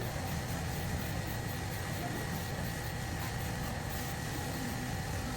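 A steady low mechanical hum, like an engine or machine running, with a faint steady whine above it.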